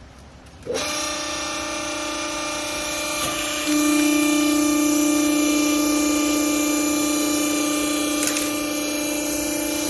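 Hydraulic baler's power unit, the electric motor and hydraulic pump, starting up under a second in and running with a steady whining hum, which grows louder about three and a half seconds in.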